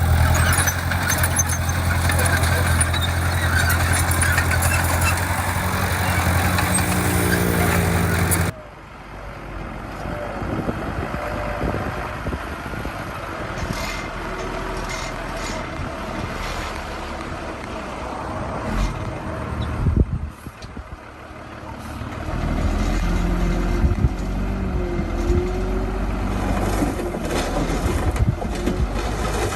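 Heavy construction-machine diesel engine running steadily, cutting off abruptly about eight seconds in to a quieter, mixed machine sound. A low engine rumble builds again in the last several seconds.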